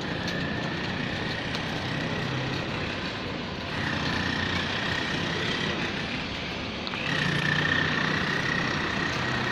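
A vehicle engine running steadily, with a high whine over a low drone that grows louder at about four and seven seconds in.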